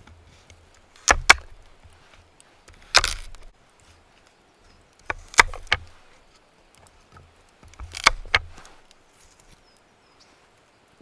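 Firewood being chopped: sharp wooden strikes, several coming in quick pairs, every two to three seconds.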